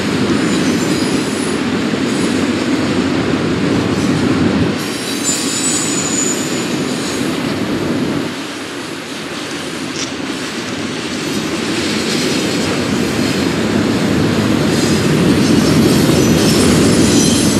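Double-stack intermodal container cars of a freight train rolling past with a steady rumble of steel wheels on rail and clicking over the joints. Faint high wheel squeals come and go, about a third of the way in and again near the end.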